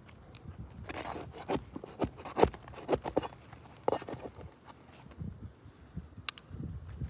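Irregular scraping, crackling and knocking of hands and tools working roof shingles, with footsteps on the roof; the sounds are densest in the first half and a couple of sharp clicks come near the end.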